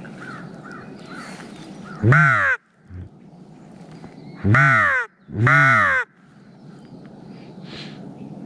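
Three loud, drawn-out crow caws close by, the second and third back to back, with fainter caws in the background before them.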